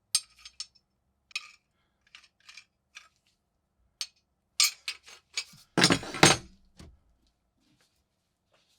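Metal tool parts clinking as they are handled: a string of light, sharp clinks, then a louder, heavier clatter about six seconds in.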